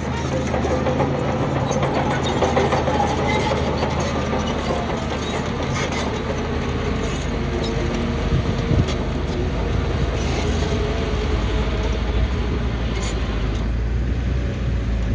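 Heavy diesel engine of earthmoving machinery running steadily at work, with a few brief knocks.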